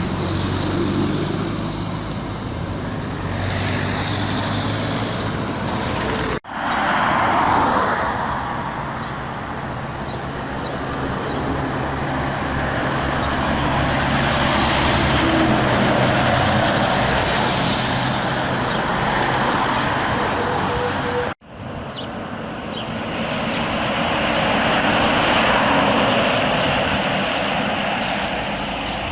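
Road vehicle and traffic sound: a steady truck engine drone over tyre and road noise, swelling and fading as vehicles pass. It breaks off abruptly twice, about six seconds in and about twenty-one seconds in, where the footage is cut.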